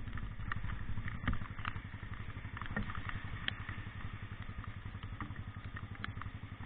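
An engine running steadily with an even, fast low pulse, with scattered clicks and knocks over it.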